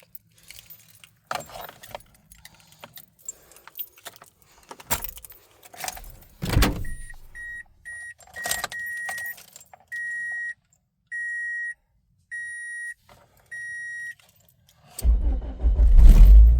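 Keys jangling and clicking, then an electronic warning chime beeping: a quick string of beeps, then slower, evenly spaced beeps. About a second and a half before the end, the 2004 Toyota Matrix XR's four-cylinder engine cranks and fires on a cold start at 18 degrees, really loud as it catches.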